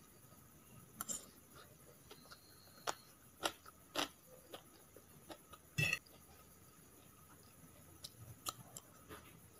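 Close-up eating sounds: chewing of chow mein noodles and fried fern greens, with a scattering of sharp clicks and smacks from the metal fork and the mouth, loudest about six seconds in.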